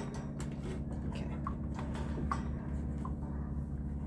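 Light, irregular taps and clicks of fan parts and tools being handled during reassembly, over a steady low hum.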